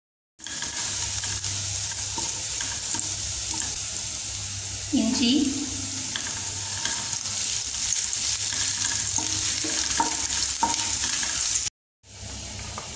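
Chopped garlic and ginger sizzling in hot oil in a nonstick kadai, stirred with a wooden spatula.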